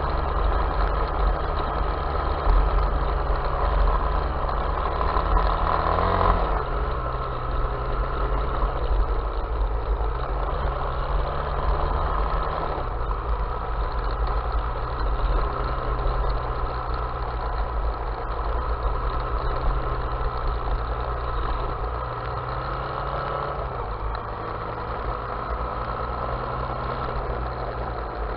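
Off-road vehicle engine running at low, steady revs, its pitch stepping down about six seconds in, again around thirteen seconds and once more near twenty-four seconds.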